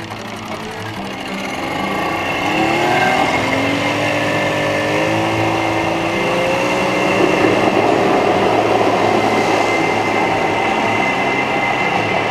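Motorboat outboard engine speeding up, its pitch rising over a few seconds and then running steadily at speed.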